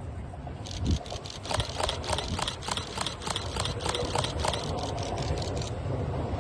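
Yagan Railway 6050-series electric train running, with a low rumble and a rapid run of clicks, about five a second, from its wheels over the rail joints, starting just under a second in and stopping near the end.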